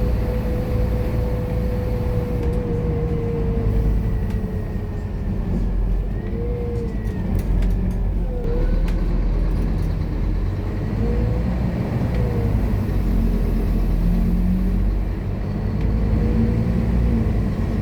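Scania K230UB bus's diesel engine running under load, with a deep rumble and a whine that rises and falls several times as the bus pulls away and eases off.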